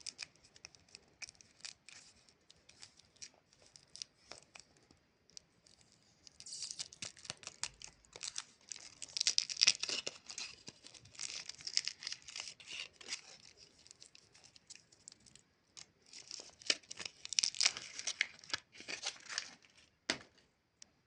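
Chupa Chups lollipop's plastic wrapper crinkling and tearing as it is unwrapped: scattered crackles, with dense, louder crinkling from about six seconds in and again near the end.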